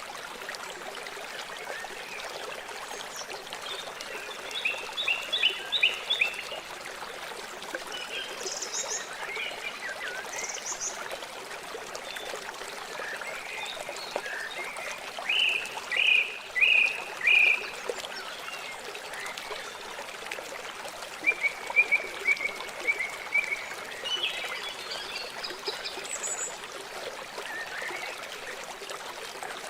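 River water flowing in a steady rush. Over it come birds chirping in short runs of quick notes, the loudest of them a little after the start, in the middle and past two-thirds of the way through, with a few thin high peeps between.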